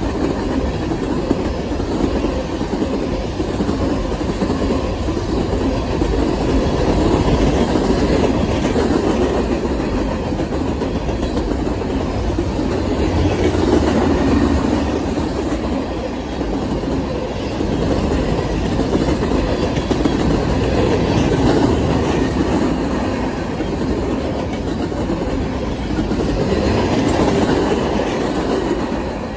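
Freight train cars, boxcars and then centerbeam flatcars, rolling past close by. Their steel wheels run on the rails with a steady, loud rumble that swells and eases every several seconds.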